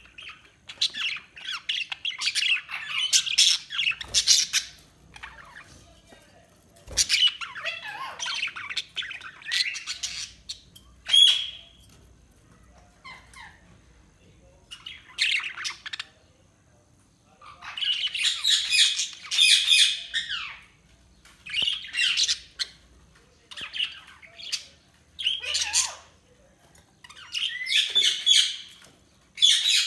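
Budgerigars chattering and warbling in bouts of a second or few, with short squawks, chirps and a clear whistle about eleven seconds in, broken by brief quieter gaps.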